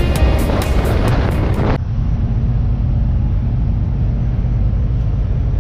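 Background music that cuts off about two seconds in, then the steady low rumble of a motorcycle ride: wind and engine noise on the rider's microphone.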